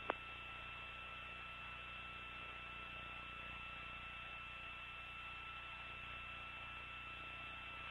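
Steady hiss and hum of an open radio communications channel between voice calls, with two faint steady tones running through it.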